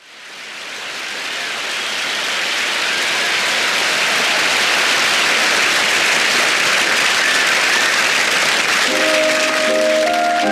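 A steady rushing hiss swells in over the first few seconds and holds. Electric piano chords enter about nine seconds in, opening the song.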